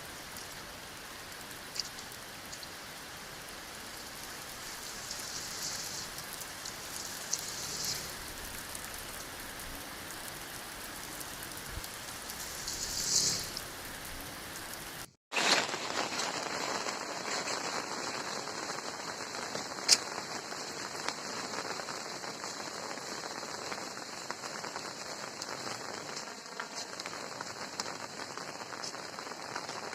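Steady rain falling. About halfway through, the sound cuts out for a moment and comes back louder.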